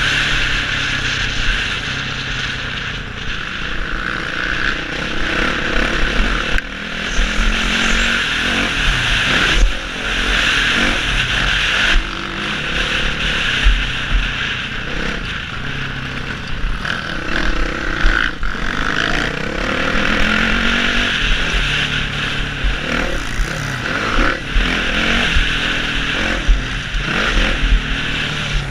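Four-stroke motocross bike engine revving up and down as it is ridden round a dirt track, with a steady rush of wind on a helmet camera and occasional knocks.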